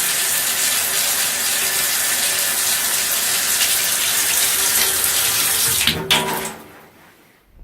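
Running water with a steady rush, which stops about six seconds in and fades out quickly.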